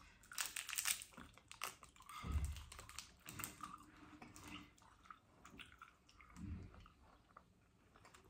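Biting into and chewing a cherry Airheads taffy bar: soft mouth sounds, with quick faint clicks in the first couple of seconds.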